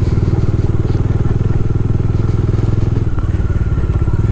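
Bajaj Dominar motorcycle's single-cylinder engine running at steady, low revs while riding a rough off-road trail.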